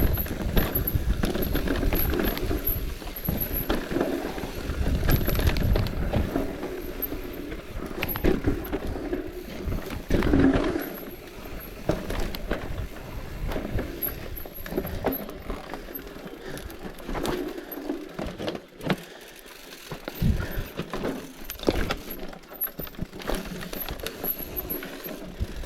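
Bicycle ridden over a rough road, rattling, with wind buffeting the microphone. The wind rumble eases about eleven seconds in, leaving scattered rattles and clicks.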